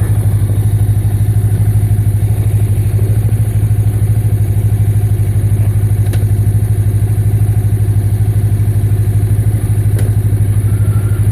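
Motorcycle engine idling steadily, with an even pulsing beat.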